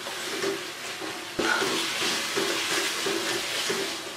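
Chicken and yogurt masala sizzling in a steel pot while a wooden spatula stirs and scrapes through it; the yogurt is being fried until its water cooks off. A knock comes about a second and a half in, and the sizzle is louder after it.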